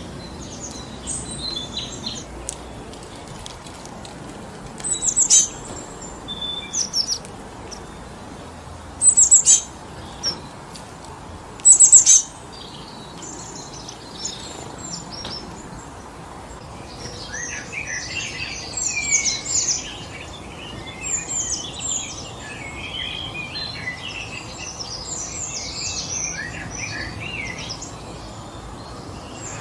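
Forest birds calling over a steady hiss of wind in the trees: a few loud, sharp, high chirps in the first half, then a busy run of overlapping chattering calls in the second half.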